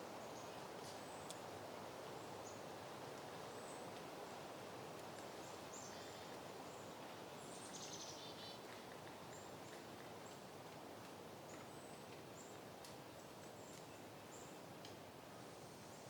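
Soft, steady wind, faint and easing slightly, with scattered brief high bird chirps and one short trill about eight seconds in.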